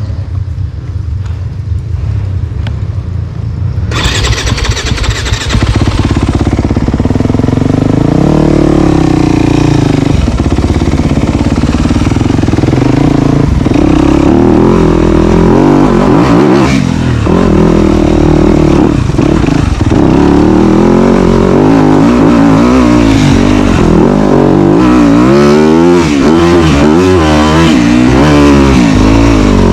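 Dirt bike engine, low and muffled at first. About four seconds in it opens up, and from then on the pitch climbs and drops again and again as the throttle is worked along the trail.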